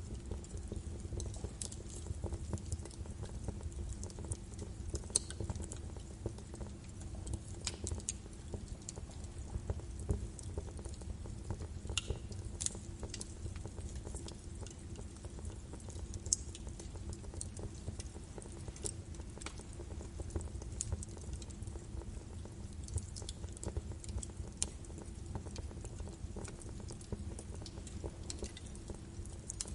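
Birch wood fire burning in a fireplace: a steady low rumble of the flames with scattered sharp crackles and pops from the burning logs.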